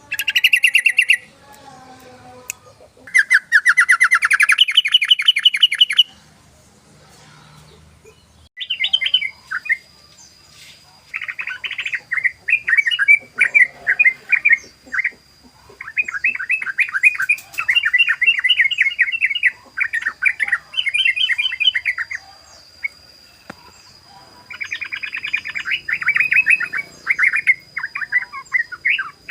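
Yellow-vented bulbul (trucukan) singing its 'ropel' song: fast chattering runs of repeated notes in bursts of a few seconds, separated by short pauses.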